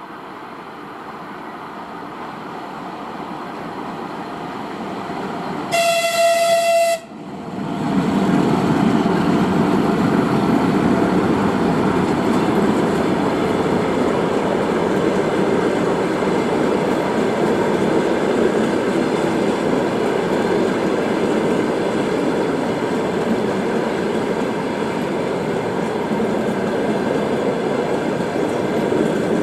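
A ChS8 electric locomotive hauling a passenger train approaches, growing louder, and gives a single horn blast of about a second, about six seconds in. The locomotive and carriages then pass close by with loud, steady wheel-on-rail noise.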